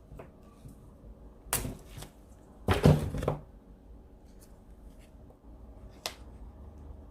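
Paper and stationery being handled on a diary page: sharp crinkles about a second and a half in, a louder paper rustle around three seconds, and a single click near six seconds.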